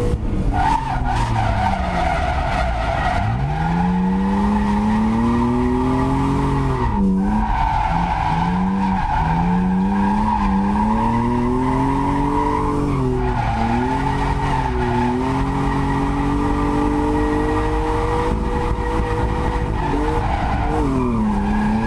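BMW E36 Compact's swapped-in M52 2.5-litre straight-six revving hard, its pitch rising and falling again and again as the throttle is worked, with a sharp drop about three, seven, thirteen and twenty-one seconds in. Rear tyres squeal steadily underneath as the car is held in a drift.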